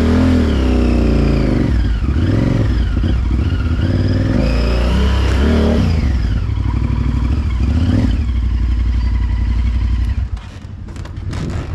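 Honda Varadero 1000 V-twin engine running at low speed, its revs rising and falling. About ten seconds in the engine sound drops off sharply, followed by a few short knocks.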